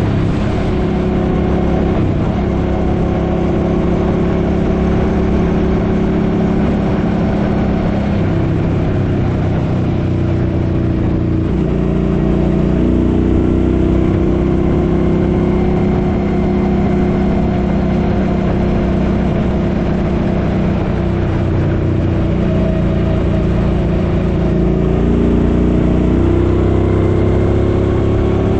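Suzuki Boulevard M50's 805 cc V-twin engine running under way on the road. Its pitch sinks, then rises again about twelve seconds in, and climbs once more near the end as the bike speeds up.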